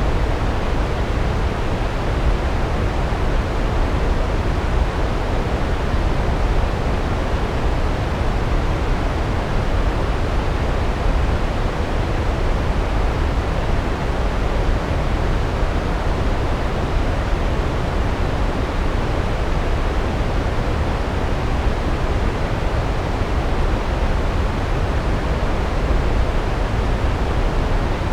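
Large waterfall: a loud, steady rush of falling water, heaviest in the low end, with no change.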